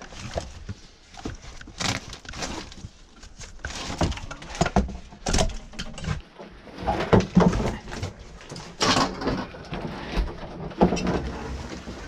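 Junk being handled and passed out of a cluttered RV interior: irregular knocks, clunks and rustling of objects being picked up, shifted and set down, with no steady sound.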